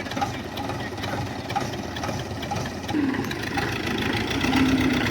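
Tractor diesel engine running at a steady low speed, with an even knocking beat.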